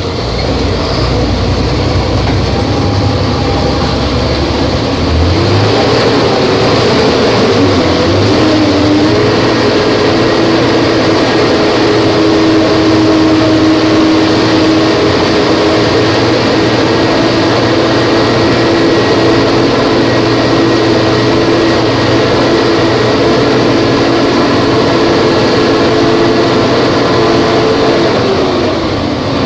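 Volvo B270F bus's diesel engine heard from on board. Its revs rise and dip about six to nine seconds in, then hold steady, and ease off near the end.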